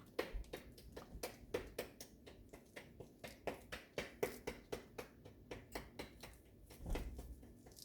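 Kitchen knife chopping fruit on a cutting board: a quick, fairly even run of light knocks, about four a second.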